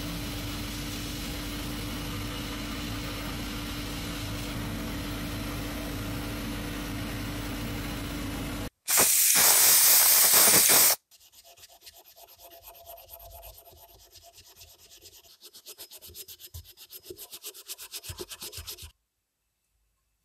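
Workshop sounds of parts being worked on. First a powered tool runs steadily with a constant hum, then a loud hiss lasts about two seconds. After that come rhythmic rubbing or sanding strokes, a few a second, which stop shortly before the end.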